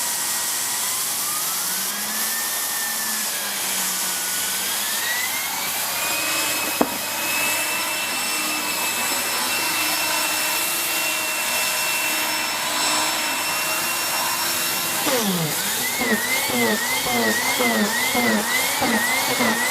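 Vacuum cleaner motor running with a turbo brush fitted. Its whine climbs in pitch in steps over the first few seconds as the power is turned up, then holds steady, with a single click partway through. About fifteen seconds in, the pitch starts wavering up and down about twice a second as the turbo brush is pushed back and forth.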